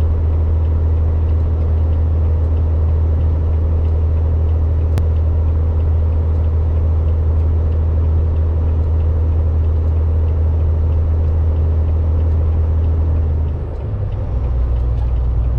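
Steady low drone of a Volvo VNL 860 semi truck's engine, heard from inside the cab while driving. About two seconds before the end the drone dips briefly and settles on a different note.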